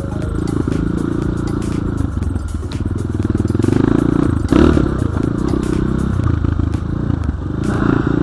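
Enduro dirt bike engine running under changing throttle while riding, with frequent clattering knocks from the bike over rough ground; it gets loudest about four and a half seconds in.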